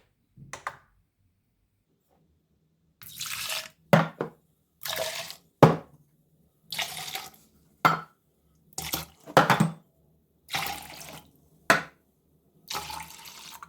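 Coffee being poured from cups into a measuring jug, several short pours one after another, each followed by a sharp clink of a cup against the jug.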